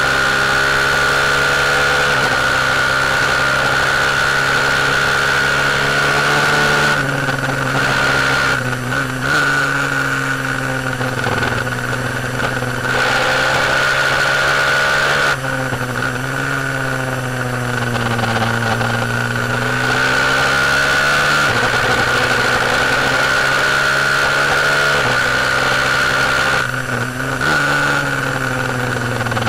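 KTM 690 single-cylinder racing motorcycle engine, running on E85 and pulling hard at racing speed. Its note climbs, drops abruptly several times, and sags low for a few seconds before rising again, with a steady high whine running under it.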